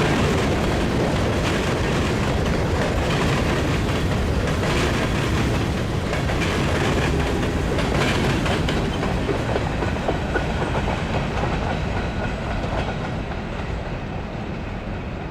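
CN freight train cars rolling past, with steady wheel and rail noise and clacking over the track, growing a little quieter near the end as the train clears.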